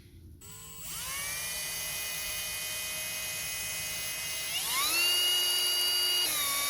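Power drill driving a self-piercing screw into PVC pipe: the motor whine winds up about half a second in and holds steady, jumps higher in pitch about four and a half seconds in, then eases down slightly just before it stops.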